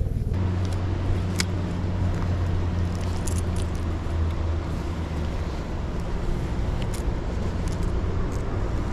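Boat's outboard motor running steadily at low speed, a constant low hum over wind and water noise, with a couple of light clicks.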